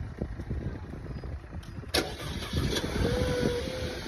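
A motor vehicle engine running with a low, uneven rumble, and one sharp knock about two seconds in.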